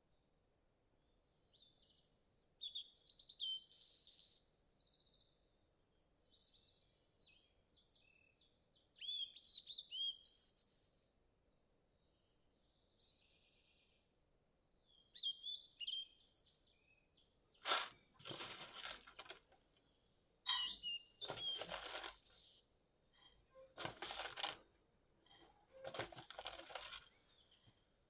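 Small birds chirping and twittering in quick high calls. About two-thirds through, several short, louder noisy sounds break in, a few seconds apart, while the chirping carries on between them.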